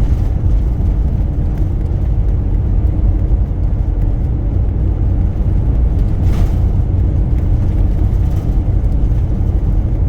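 Steady low rumble of wind and road noise inside a moving vehicle driving through a sandstorm.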